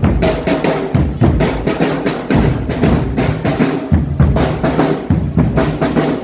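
Marching drum band playing: fast snare drum strokes and rolls over heavy bass drum beats that land about once every second or so.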